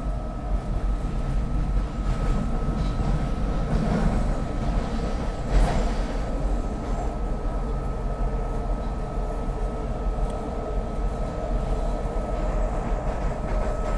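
SEPTA Market-Frankford Line el train running between stations, heard from inside the car: a steady rumble of wheels on the rails with a constant high whine, and one sharp clack about five and a half seconds in.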